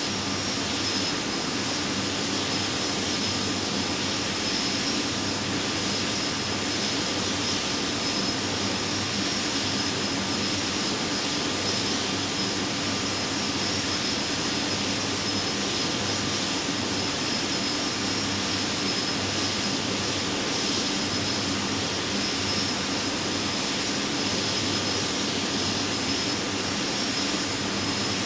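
Airbus A320-214 in flight, its CFM56 jet engines and the airflow heard from inside the aircraft as a steady, unchanging noise with a faint high whine.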